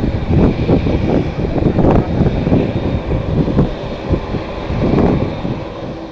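Strong wind gusting and buffeting the microphone in irregular surges, over the steady whine of a jet aircraft's engines. The sound fades near the end.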